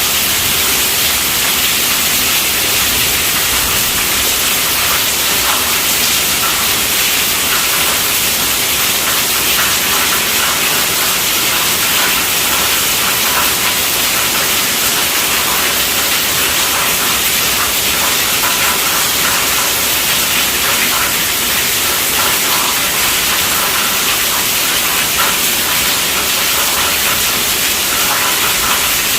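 Steady rainfall, a dense even hiss with no let-up.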